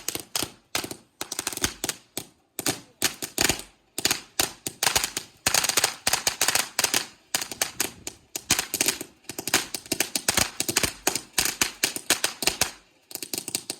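A crackling firework going off: a rapid string of sharp cracks and pops in quick clusters. They stop just before the end.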